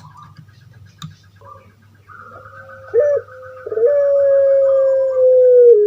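Puter pelung, a ringneck dove (Streptopelia risoria), cooing: a short note about three seconds in, then one long drawn-out coo that sinks in pitch near the end.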